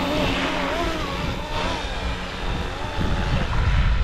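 Electric RC helicopter (Flywing Airwolf on an FW450 V3) in flight: a steady rotor and motor whine whose pitch wavers. Wind buffets the microphone with a low rumble that grows heavier about three seconds in.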